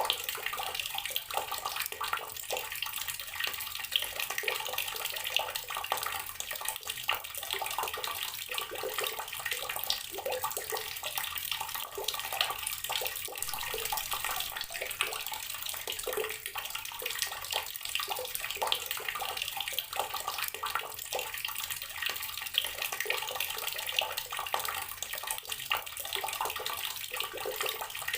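Water running steadily from an outdoor tap and splashing onto the surface below, a continuous dense splatter.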